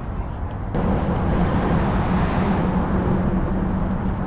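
Motor vehicle noise with a steady low engine hum that comes in abruptly about a second in and holds.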